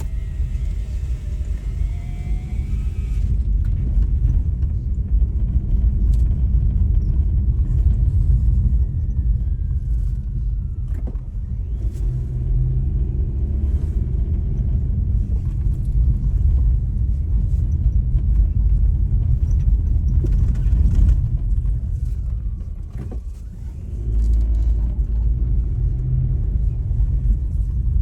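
Low, steady rumble of a vehicle driving along a road, swelling and easing in loudness, with a couple of sharp knocks.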